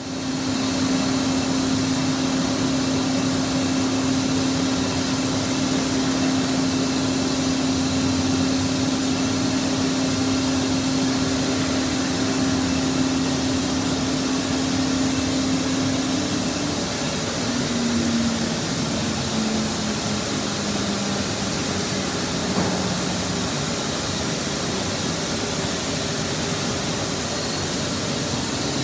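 Burner firing a boiler in a fire test: a steady loud hiss with a humming tone that slides lower in pitch about two-thirds of the way through.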